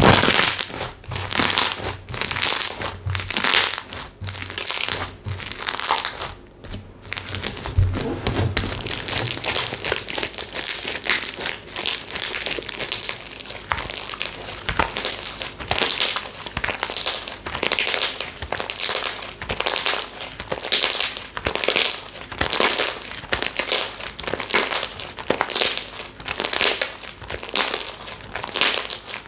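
Textured slime being squeezed and kneaded by hand, a crackling crunch with each squeeze, about two a second, with a brief pause about seven seconds in.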